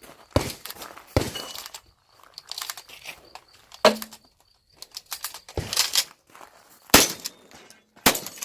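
Shotgun shots fired in a string, about six sharp reports one to two seconds apart, with handling and movement noise between them.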